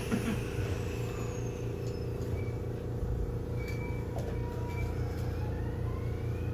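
Electric train running: a steady low rumble, with a faint whine that rises in pitch near the end.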